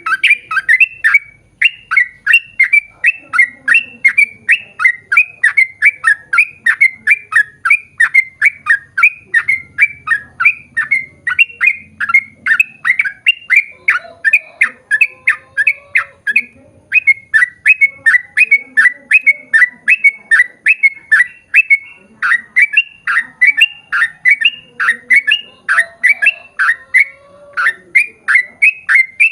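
Yellow-vented bulbul (trucukan) singing a long rapid-fire series: short bubbling notes that slide down in pitch, about three a second, almost without pause.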